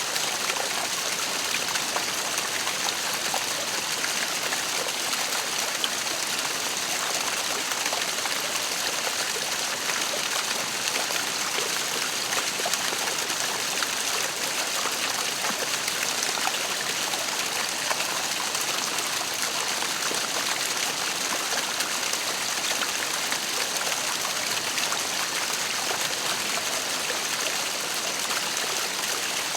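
Waterfall: falling water splashing and rushing in a steady, even wash, high and hissy, with no change over the stretch.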